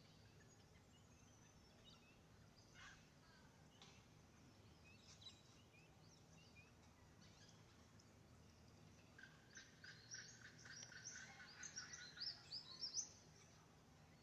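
Wild birdsong: a few faint calls, then from about nine seconds in a rapid run of high, rising chirps for about four seconds, the loudest near the end.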